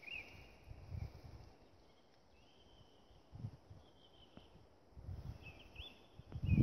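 A distant bird calling with thin, high whistled notes, some ending in a quick upward flick, repeated several times. Gusts of wind rumble low on the microphone around a second in and again near the end.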